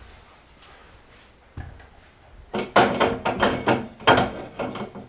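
A single knock, then about two and a half seconds of rapid, loud knocks and rattles as the loft ladder and its hanging brackets are handled and positioned against the wall.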